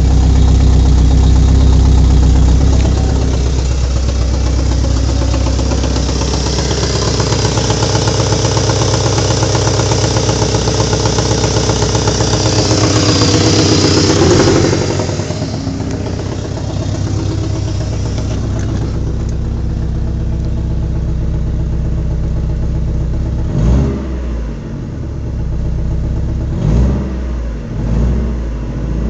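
Four-cylinder engine, suspected by its owner of misfiring, running at raised revs and then dropping back to idle about halfway through. Near the end the throttle is blipped three times in quick short revs.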